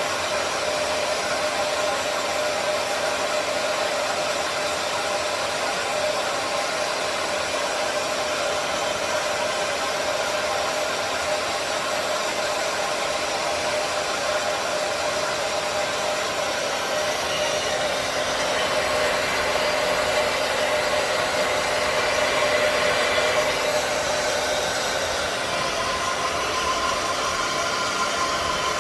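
Hair dryer running steadily, blowing on a freshly showered cockatoo's feathers, with a steady whine under the rush of air; it gets a little louder about two-thirds of the way through.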